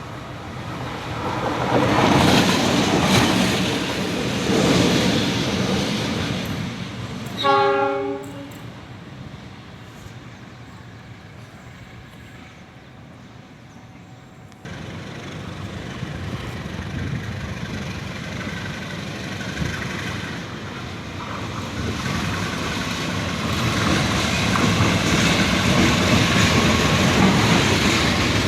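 Train running on the rails with a steady rushing noise that swells and fades, and one short train horn blast about seven and a half seconds in. The noise jumps up suddenly about halfway through and grows louder toward the end.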